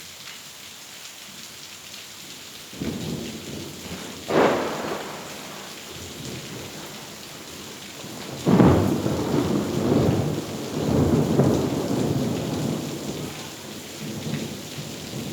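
Thunder during steady rain: a rumble about three seconds in, a sharp crack a second later, then a louder crack near the middle that rolls on in a long rumble for several seconds.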